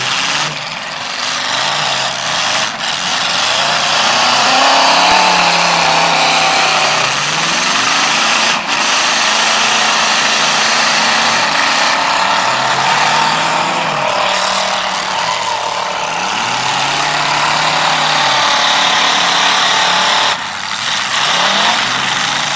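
Several demolition derby cars' engines revving up and down together as the cars ram and shove each other, with a few sharp crash impacts, one at about nine seconds in.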